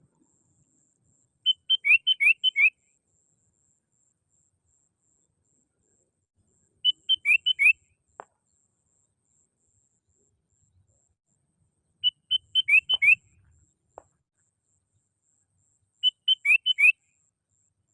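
Sooty-headed bulbul (kutilang) song: four short phrases of quick whistled notes, each about a second long, repeated roughly every five seconds as a calling phrase. A short faint click follows two of the phrases.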